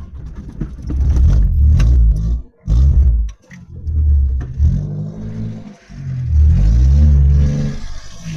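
A car's 1.8 engine, loaded with firewood, revving up as it pulls away. Its pitch climbs and cuts off twice, about two and a half and six seconds in, at gear changes.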